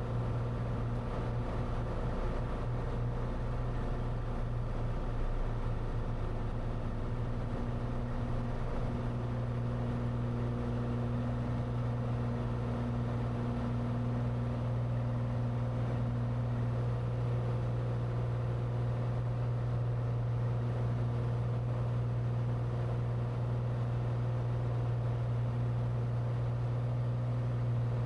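Cessna 182T's six-cylinder Lycoming IO-540 engine and propeller droning steadily, heard inside the cabin during the climb-out just after takeoff.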